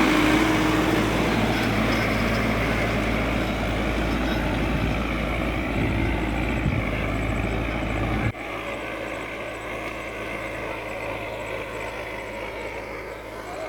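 Tractor engine running steadily. The sound drops suddenly and sharply about eight seconds in, then carries on at a lower level.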